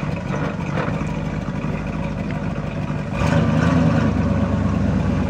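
1975 Ford F100 pickup's engine running, then revving up and getting louder about three seconds in as the truck accelerates.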